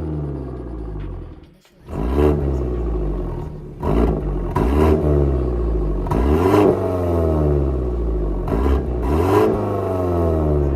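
BMW 120i's B48 turbocharged two-litre four-cylinder through a valved cat-back exhaust, revving up and falling again over and over, with several sharp cracks. The sound drops away briefly about a second and a half in.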